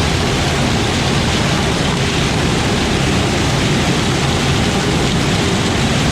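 Tractor running steadily: a loud, even noise with a low engine drone underneath.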